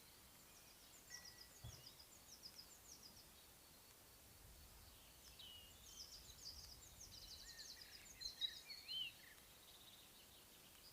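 Faint songbird song in spring countryside. A short run of quick high chirps comes about a second in. A longer, busier stretch of trills and whistled notes starts about five seconds in and is loudest a little after eight seconds.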